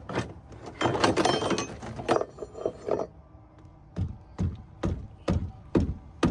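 Hand tools and metal parts clattering for about three seconds. Then a steady run of six knocks, about two a second, as a part on the truck is tapped into place.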